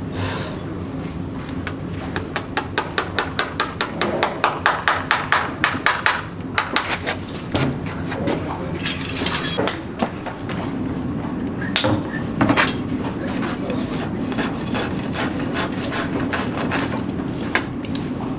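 Farrier's hammer tapping metal in quick runs of light strikes, about four a second, for the first half. Then come a few separate blows, over a steady low hum.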